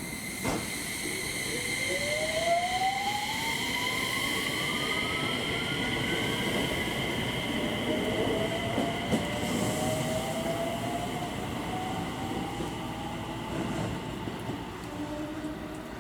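JR West 227-series electric train pulling away from the platform, its inverter motor whine rising steadily in pitch as it accelerates over the rumble of wheels on rail.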